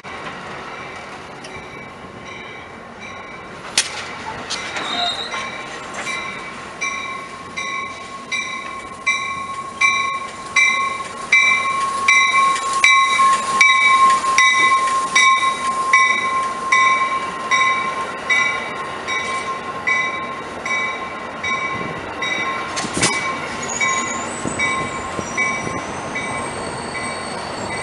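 An Amtrak California passenger train pulls into the station with its bell ringing about one and a half times a second, loudest as the lead car passes close by. A steady high squeal of brakes or wheels runs under the bell as the train slows, and two sharp clanks come at about 4 s and 23 s.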